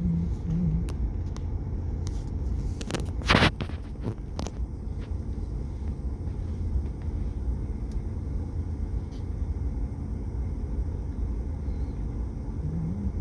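Steady low rumble of a car in traffic, with a cluster of sharp clicks or knocks between about three and four and a half seconds in.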